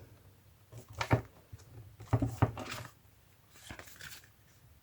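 Paper and card being handled on a tabletop: a few light knocks and rustles in short clusters.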